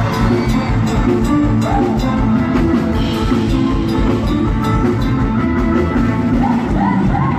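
Live band music played through a stage PA, with a drum kit keeping a steady beat under bass and other instruments.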